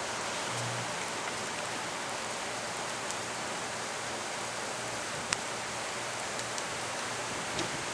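Steady hiss with the low electrical hum of a transformer beside a downed power line underneath, swelling briefly just after the start; a few faint sharp clicks, one louder about five seconds in.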